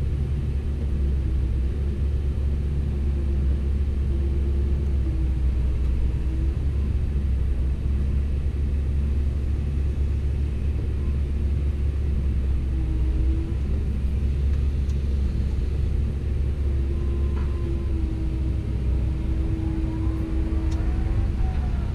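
Komatsu PC170LC-10 excavator's diesel engine running under work with a steady deep rumble, and a whining tone that comes and goes several times as the hydraulics are worked.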